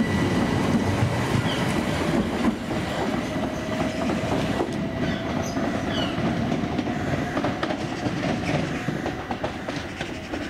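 Electric multiple unit train running away down the line. Its wheels click over rail joints and its motors give a steady whine, and the sound fades gradually as it recedes.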